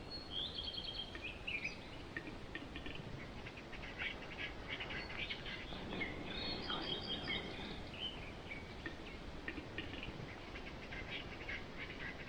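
Several small birds singing and chirping, with short repeated trills and calls, over a steady background hiss.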